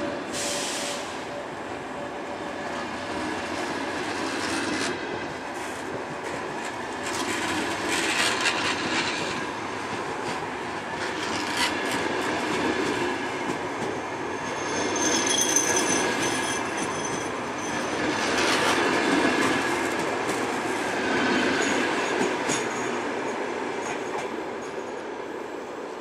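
VR Eil passenger coaches rolling past at low speed as the train departs: wheels clicking over rail joints, with a high wheel squeal about midway. The noise eases a little as the last coach pulls away near the end.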